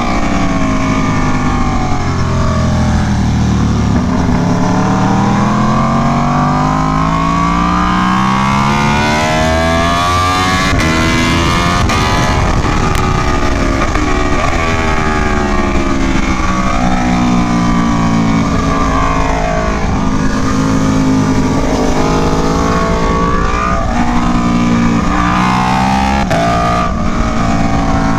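Aprilia Tuono V4 1100 Factory's V4 engine under hard riding, its pitch climbing and falling again and again as it revs up through the gears and drops on downshifts, with a quicker run of shifts near the end.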